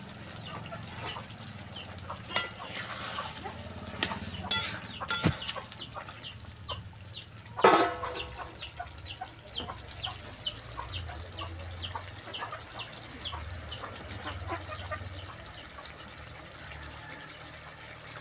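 Birds calling: a run of short, high, falling chirps a few times a second, over a low steady hum. A few sharp knocks come in the first five seconds, and a loud short sound about eight seconds in.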